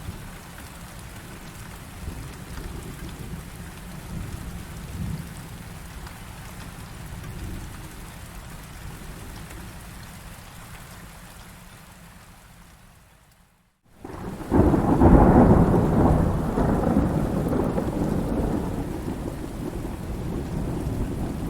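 Steady rain with low rumbling thunder underneath, fading out to a brief gap about two-thirds of the way through. Then a loud roll of thunder comes in suddenly and rumbles on slowly dying away, with rain continuing over it.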